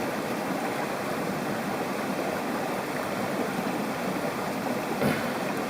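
Mountain stream water rushing steadily over rocks, with a faint knock near the end.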